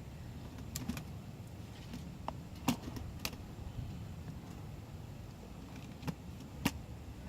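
1990 Chevrolet K1500's 5.7 L 350 V8 idling with a steady low rumble, with an exhaust leak. A few sharp clicks come at irregular moments, the loudest nearly three seconds in and again near the end.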